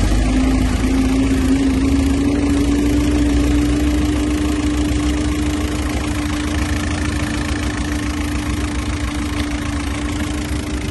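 Skoda Octavia 1.9 TDI PD (BKC) four-cylinder diesel engine idling steadily, under test running.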